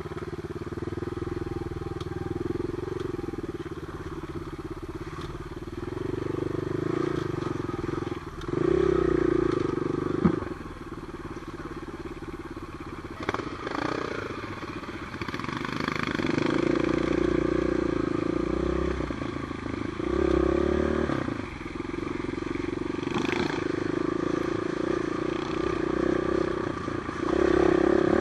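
Trail motorcycle engine running while the bike is ridden, its revs rising and falling repeatedly with the throttle. There is a sharp knock about ten seconds in.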